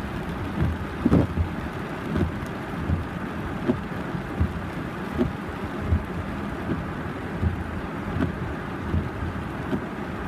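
Wind rumbling over the microphone, with short low thumps recurring about every second.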